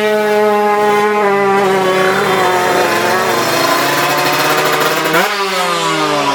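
Two-stroke drag-bike engine running flat out at high revs, holding a steady high pitch. About five seconds in the pitch briefly jumps up, then falls away steadily as the throttle closes or the bike passes.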